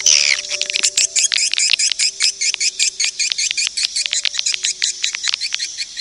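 Swiftlet lure-call track for drawing swiftlets to a nest house: after a brief burst of dense twittering, a rapid, even series of short chirps, about eight a second, over faint steady low tones.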